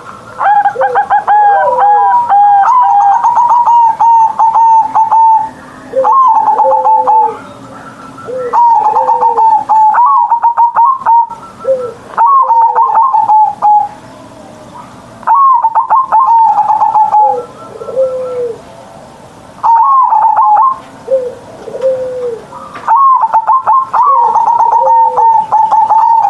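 Zebra dove (perkutut) cooing: a song phrase of rolling coos repeated about eight times, with short pauses between phrases.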